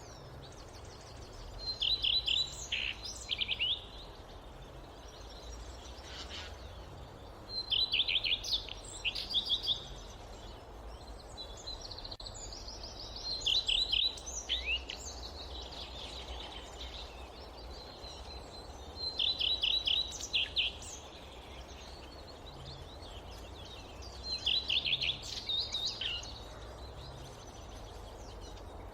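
A songbird singing the same short phrase of rapid, high notes five times, about every five to six seconds, over a steady low background noise.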